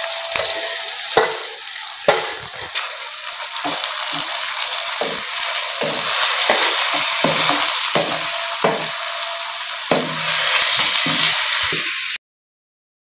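Grated carrots and onions sizzling in ghee in a pan as they are stirred, with the spoon knocking against the pan at irregular moments. The sound cuts off abruptly about a second before the end.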